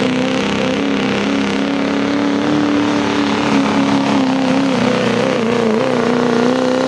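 Diesel 4x4 pickup truck engine held at full throttle while pulling a weight sled, a loud steady high-revving tone that wavers slightly as the truck works against the sled.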